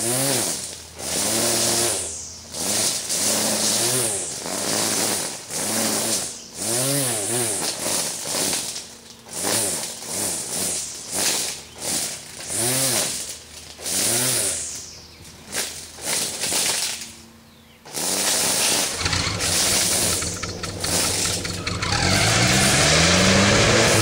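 Four-cylinder engine of a 1976 Opel-Isuzu being cranked in repeated short bursts of about a second each, each burst rising and falling in pitch, on its first cold start after sitting seven years. After a short pause it catches near the end and runs, revving up and down.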